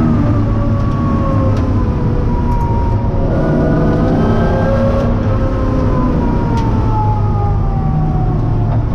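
Porsche 928 race car's V8 engine heard from inside its stripped cabin, running hard under racing load. Its pitch falls slowly over several seconds, climbs briefly about four seconds in, then falls again.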